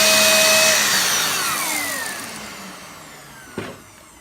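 Vacuum cleaner motor running loud, then switched off about a second in and spinning down with a falling whine. There is a single sharp knock near the end.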